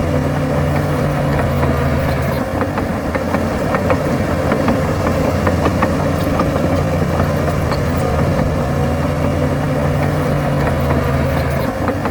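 Diesel engine of heavy earthmoving machinery running steadily, with scattered light clanks and knocks over it.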